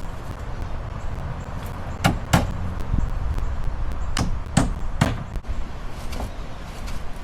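A handful of sharp knocks, about five in an uneven sequence, with two pairs close together, over a steady low rumble.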